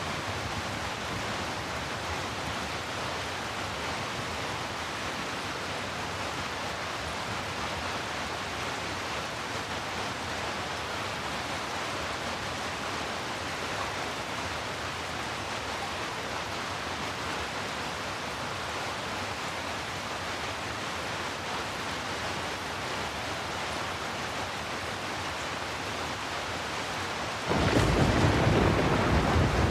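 Steady rain falling, an even hiss. Near the end it turns suddenly louder, with a deep low rumble coming in.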